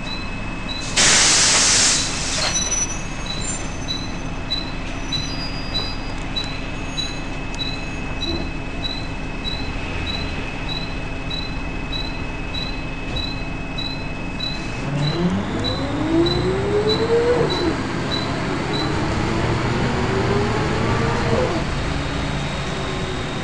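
Volvo B10BLE bus with a steady thin high-pitched whine, the strange noise of the title, over a running diesel engine, with a short loud air hiss about a second in and regular ticking about one and a half times a second. The whine stops about 15 s in as the engine note rises twice in a row while the bus pulls away through the gears.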